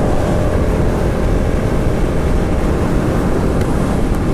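Steady, loud wind roar on the microphone while riding a motorcycle at road speed, with the bike's running noise mixed in.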